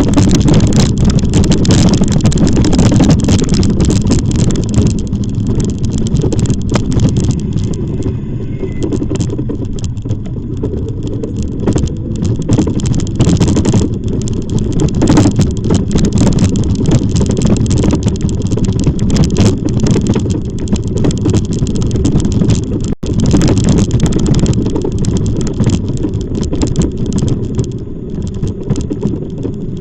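Loud, steady wind rumble buffeting the microphone while riding an e-bike, with frequent crackles and a brief dropout near the end.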